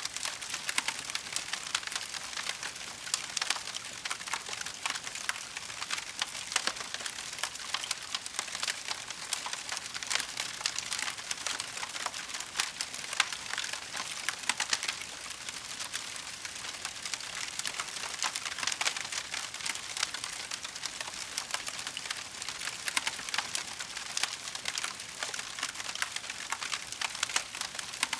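Wood fire burning in a fireplace, a steady dense crackle of many small pops and snaps.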